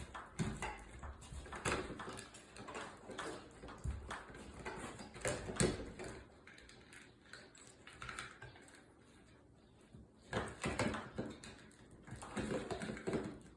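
Electrical wires with wire nuts being folded and pushed into an electrical box: irregular knocks and clicks with rustling from the handling.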